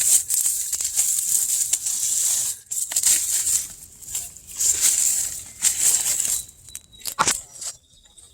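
Dry leaf litter and undergrowth rustling and crackling in repeated bursts as it is poked and pushed aside during a search of the ground, with one sharp click about seven seconds in.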